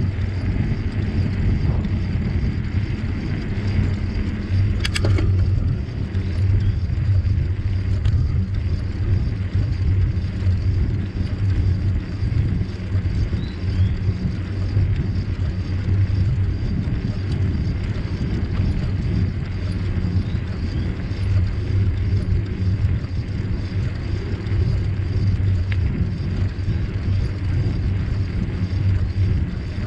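Steady low rumble of wind on the microphone and tyres rolling while riding a bicycle, with one sharp click about five seconds in.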